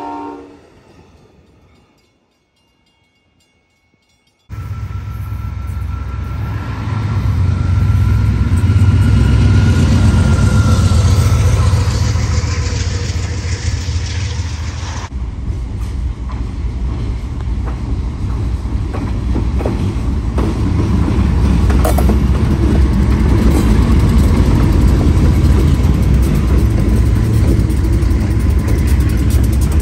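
An Amtrak locomotive horn fading out, then a moment of silence. A steady rumble of an approaching train follows, and about halfway through a Providence & Worcester freight train takes over, its diesel locomotive and covered hopper cars rumbling past close by.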